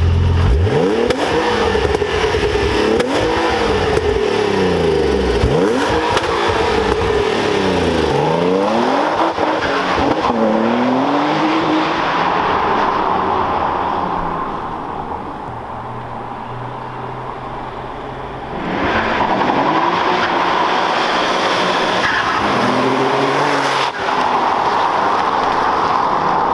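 Twin-turbocharged Nissan 350Z V6 under hard acceleration, heard from inside the cabin: the engine pitch climbs and drops again and again as it pulls through the gears. It eases off and runs quieter for a few seconds past the middle, then pulls hard again.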